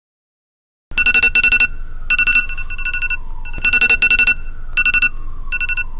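Electronic alarm clock beeping in short bursts of rapid beeps, starting about a second in after dead silence. A fainter tone slides downward beneath the beeps twice.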